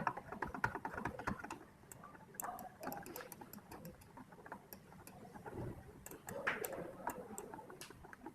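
Light, irregular clicking of a computer keyboard and mouse used to steer a 3D walkthrough, a quick scatter of small clicks with short gaps.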